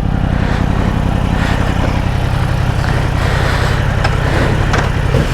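Sportbike engine idling steadily.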